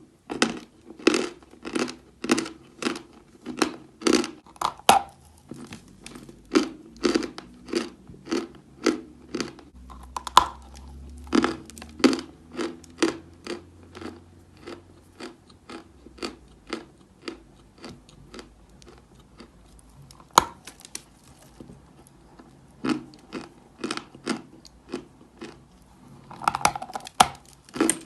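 Chalk being chewed close to the microphone: sharp, dry crunches about twice a second, sparser for a few seconds in the middle before the regular rhythm picks up again.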